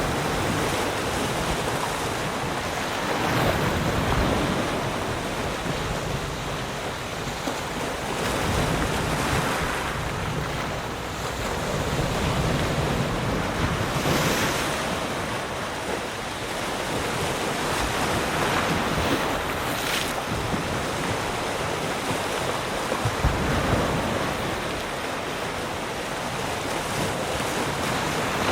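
Ocean waves breaking and washing on a shore, a steady surf noise that swells and falls back every few seconds.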